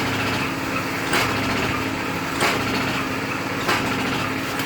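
Jernang fruit crushing machine running under power: a steady motor hum with a short, sharp knock repeating about every second and a quarter.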